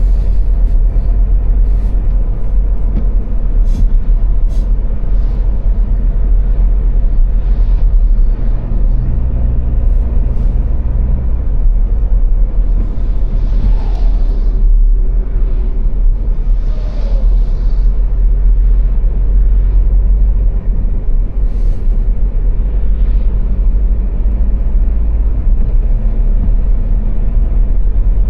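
Car driving at speed on the Autobahn: steady, loud low rumble of road and engine noise, with two brief swells of hiss about halfway through.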